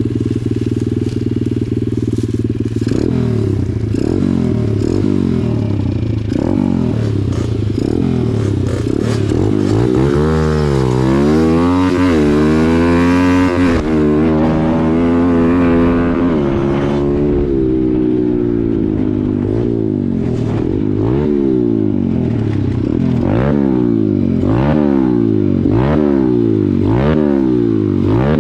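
Small dirt bike engines, a 125cc pit bike and a Kawasaki KX65, run hard while racing. The pitch climbs and drops again and again as the riders shift and roll off. In the middle there is a long, wavering stretch at high revs.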